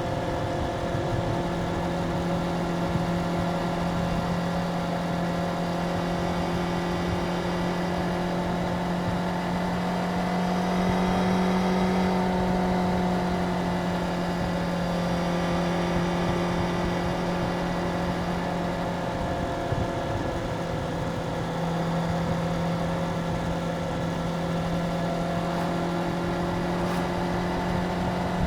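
Stock 2025 Suzuki GSX-R750's inline-four engine running steadily on its stock exhaust. Its pitch rises slightly about ten seconds in and drops back a little around twenty seconds.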